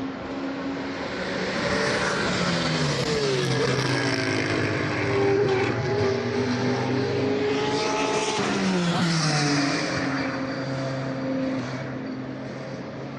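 GT3 race car engines at full racing speed, growing louder, with the engine note falling sharply twice, about a third of the way in and again past the middle, then fading near the end.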